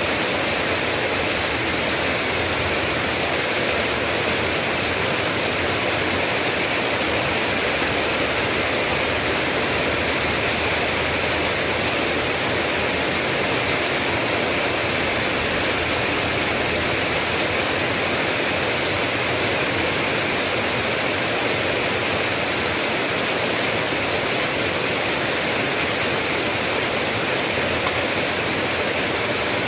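Steady heavy rain: a dense, even hiss of falling water with no separate drops, thunder or changes.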